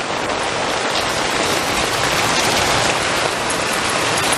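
Heavy rain pouring down, a dense steady hiss of drops.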